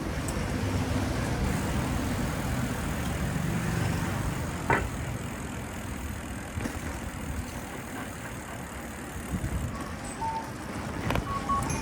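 Street noise heard from a moving bicycle: a steady low rush of wind and road traffic, easing off after about five seconds, with one sharp click a little under five seconds in.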